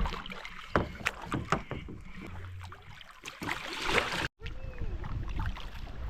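Kayak paddling: the paddle knocking against the hull and splashing in the water in a string of irregular knocks, with a low rumble underneath. The sound cuts out completely for a moment a little after four seconds.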